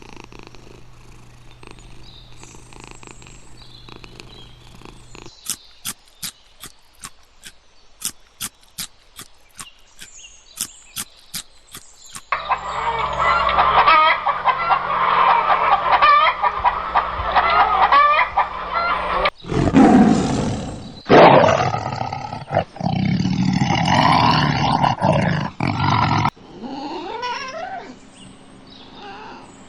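Animal calls in several separate clips, one after another. The loudest, broadest calls come in the second half.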